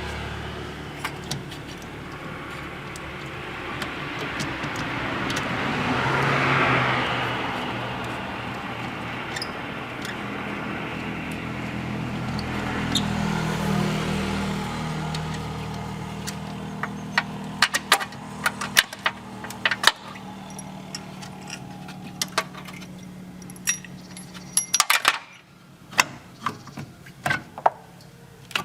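A steady low machine hum that swells twice, then a run of sharp metal clinks and clicks, like tools and small metal parts knocking together during engine repair work, coming thick in the second half.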